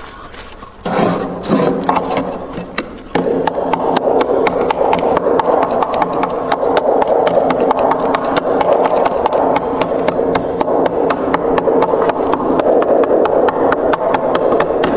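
Freezer frost crunching: a few separate knocks, then from about three seconds in a steady, dense crackle of fine crunches.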